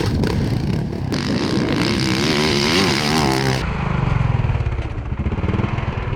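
Motocross dirt bike engine running and revving, the pitch rising and falling as the throttle is worked, with abrupt changes in the sound about a second in and again past the middle.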